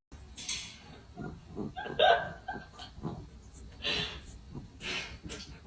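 A pet animal making short breathy puffs, with a brief pitched sound about two seconds in.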